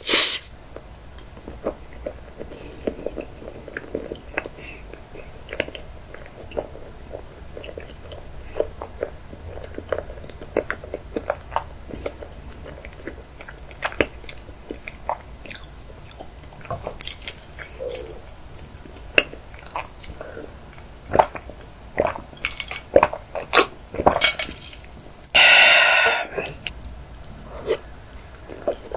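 Close-miked eating of chocolate mousse layer cake: a person biting and chewing forkfuls, with many small sharp clicks and wet mouth sounds. There is a loud bite right at the start and a longer, louder sound a few seconds before the end.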